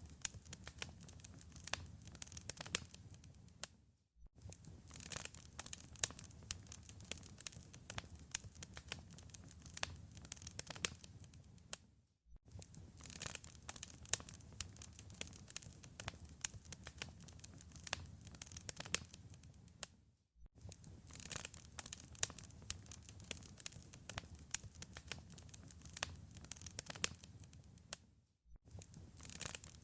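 Wood fire in a fireplace crackling and popping, with many irregular sharp snaps over a soft low rumble. The crackle drops out briefly about every eight seconds, as where a short recording loops.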